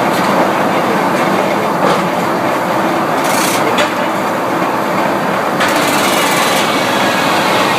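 Sawmill machinery running: a loud, steady mechanical noise with a few short knocks and a brief high hiss a little after the middle.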